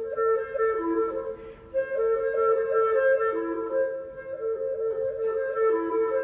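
A woodwind trio of flute and two clarinets (one in C, one in B flat) playing chamber music: quick interlocking notes, with a lower held note coming in briefly a few times.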